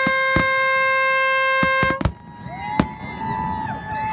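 A boat horn blowing one long steady note that cuts off about two seconds in, with a few fireworks bangs over it. Fainter horns at other pitches then start up and waver.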